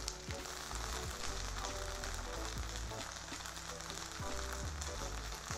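Wheat gluten (seitan) frying in shallow oil in a nonstick pan: a steady, soft sizzle, with light background music underneath.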